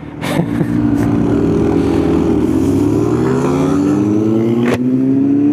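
Kawasaki Z900's inline-four engine getting louder as it pulls away, its pitch holding, dipping once in the middle and then climbing steadily, as through a gear change. A few short clicks sound over it.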